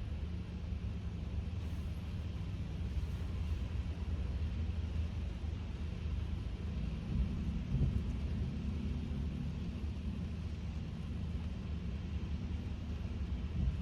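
Steady in-cabin road noise of a Kia K5 (DL3) driving on a wet road: a low rumble with a faint hiss of the tyres over it.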